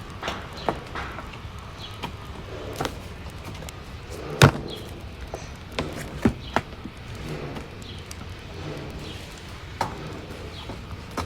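Wood fire crackling in a fireplace: irregular sharp pops and snaps over a steady low rumble, the loudest pop about four and a half seconds in.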